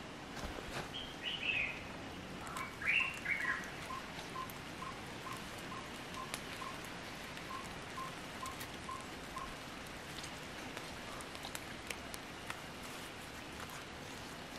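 Wild birds calling: a couple of short chirping phrases, then one bird repeating a single short piping note about twice a second for several seconds. Faint scattered clicks sound under a steady background hiss.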